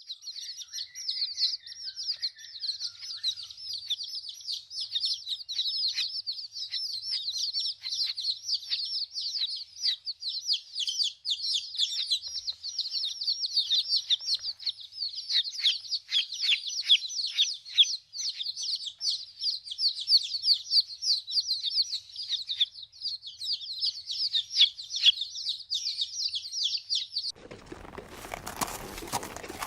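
Many small birds chirping together in a dense, overlapping run of quick, high chirps. About 27 seconds in it cuts off and a louder, noisy sound takes over.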